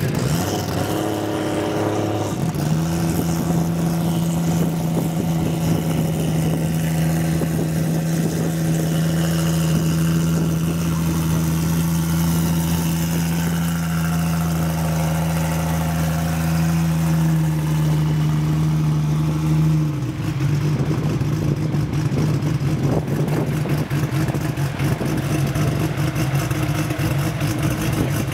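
Toyota 2JZ inline-six engine of a drag car running at a steady, held speed, then dropping to a rougher, uneven idle about twenty seconds in.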